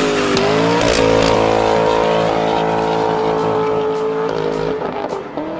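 Car engine revving through a performance exhaust: climbing in the first second, held steady at high revs for about three seconds, then dropping back near the end.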